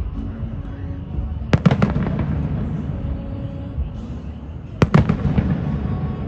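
Fireworks bursting: two quick volleys of several sharp bangs each, about three seconds apart, each trailing off in echo, over a steady low rumble.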